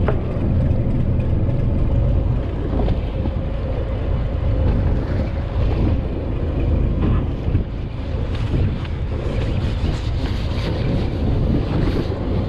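Fishing boat's engine running steadily, a low rumble with a constant hum, with wind buffeting the microphone.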